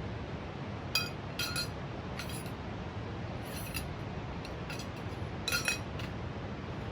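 Light metallic clinks and taps from small metal camping gear being handled, about six in all with a quick pair near the end, over a steady low rush of background noise.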